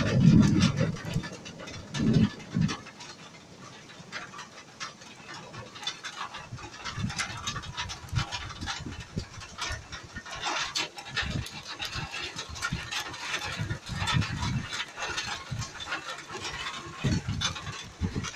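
Heavy rain falling on trees and a wet wooden window sill: a dense, steady patter of drops, with short low thumps now and then.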